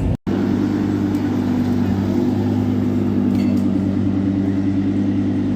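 A car engine running at a steady idle: an even low hum that holds the same pitch without revving.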